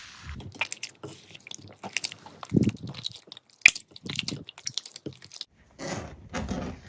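Slime being squeezed and worked by hand: a run of sharp crackling clicks and pops, with several longer wet squelches.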